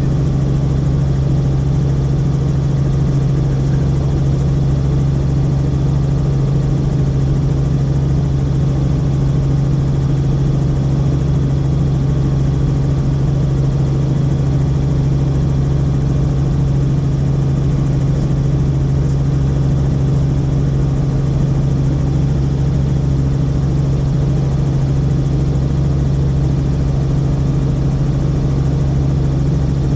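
Helicopter in flight heard from inside the cabin: a steady, loud engine and rotor drone that does not change.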